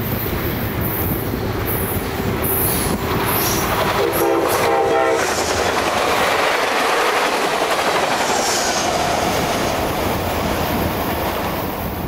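Metro-North passenger train passing through a station at speed. Its horn sounds one short blast about four seconds in, over a steady rush of wheels on rail as the coaches go by.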